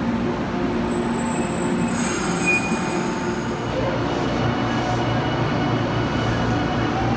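Electric commuter trains running along a station platform, a steady rumble of wheels and running gear. About two seconds in it changes to a JR Kyushu 813 series EMU. A faint rising motor whine starts near the end as the train picks up speed.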